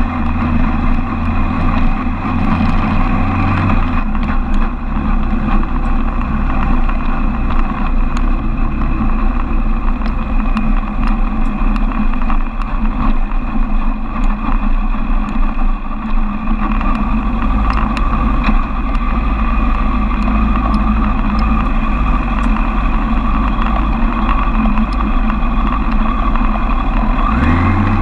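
Suzuki Bandit 1200's air/oil-cooled inline-four engine running at low revs as the motorcycle rolls slowly along. Near the end the engine note rises as the revs climb.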